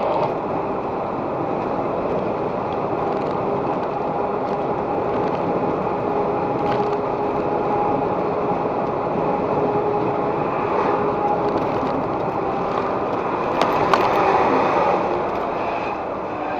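Steady road and engine noise of a moving car, heard through a dashcam microphone, with a faint steady whine for the first ten seconds. A sharp click and a short louder stretch come about fourteen seconds in.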